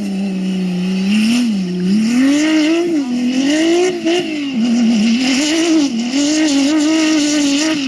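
Off-road race vehicle's engine running hard, its revs rising and dropping again and again as the throttle is worked over rough ground.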